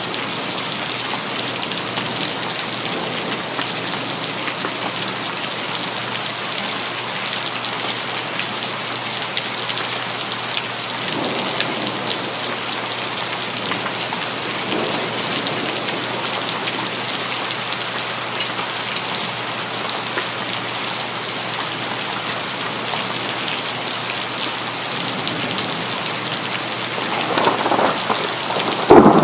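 Rain falling steadily with a patter of individual drops. Near the end, thunder begins to rumble and swells loudly.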